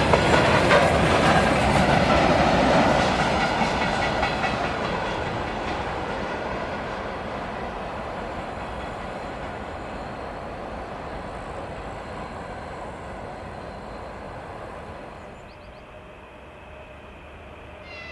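Freight train rolling past, its wheels clacking over rail joints, the sound loudest at first and then fading steadily as the train moves away.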